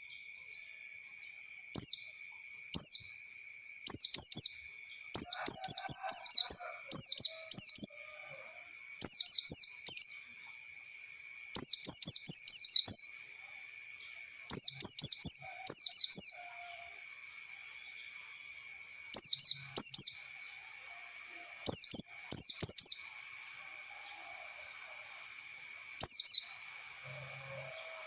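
White-eye (pleci) singing in bursts of rapid, high chirping phrases, each about a second long with short pauses between. This is a lure recording meant to prompt other white-eyes to sing. A faint steady high whine runs underneath.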